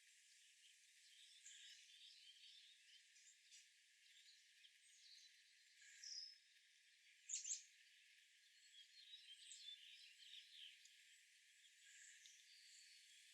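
Faint wild birds chirping and calling, scattered short notes, with a louder call about six seconds in and a sharp double note just after it. The sound is thin, with no low end.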